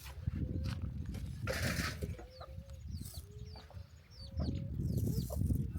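Chickens clucking, with short level calls and many quick, high, falling chirps.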